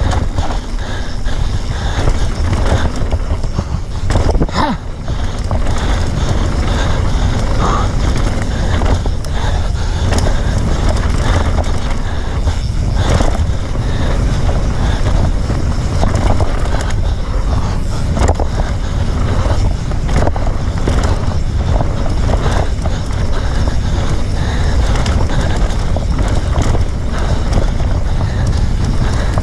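An off-road bike running fast over a rough trail: a constant low rumble of tyres and wind on the microphone, with frequent rattling knocks from the bumps.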